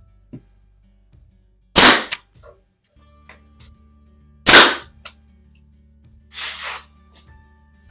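Pneumatic brad nailer firing twice, sharp loud shots about three seconds apart, followed by a softer brief hiss.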